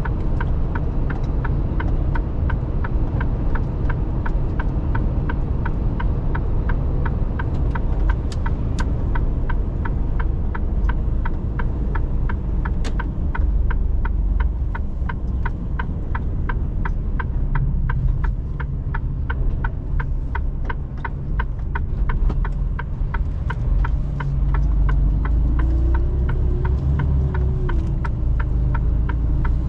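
Mercedes-Benz Actros lorry driving, with a steady low engine and road rumble. A regular ticking, about three ticks a second, runs through the first twenty-odd seconds and then stops. Near the end a brief tone rises and falls.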